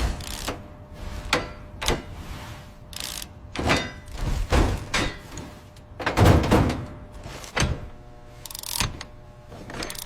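A run of heavy metallic thuds and clanks, a dozen or so spread unevenly, the loudest at the start and about six seconds in, over a faint steady hum.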